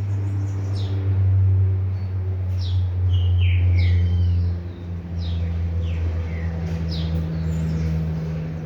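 Birds chirping: short, sharply falling high calls about once a second, with a few lower whistles sliding down in pitch. A steady low hum runs underneath.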